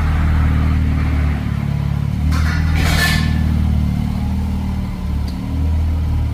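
Ram 1500 RHO pickup's twin-turbo 3.0 L inline-six running through an aFe Vulcan aftermarket exhaust, its deep note swelling and easing a few times. A brief hiss about two and a half seconds in.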